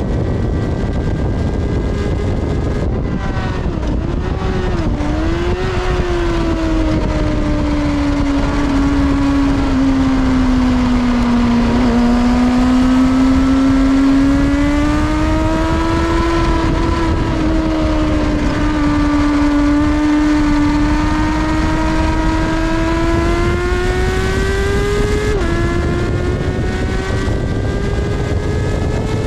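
Kawasaki ZXR400's inline-four engine running at high revs under load, its pitch sagging and climbing again as the throttle is worked, with a sudden drop in pitch near the end as it shifts up a gear, over a steady rush of wind.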